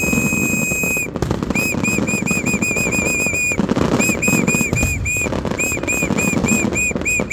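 A high, steady whistle held for about a second, then runs of short, quick whistles at the same pitch, about five a second, broken by brief pauses. Fireworks crackle and pop underneath.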